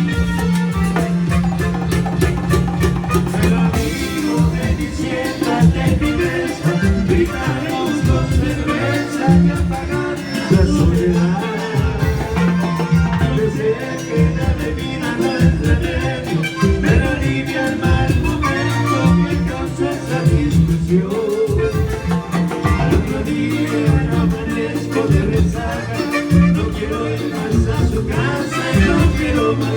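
A band playing Latin dance music in the salsa style, with a steady, even beat.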